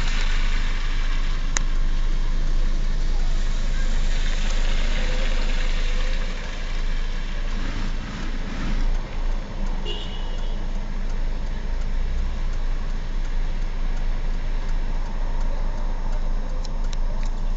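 A motor vehicle's engine running steadily. A rushing hiss sits over it for the first six seconds, then dies down.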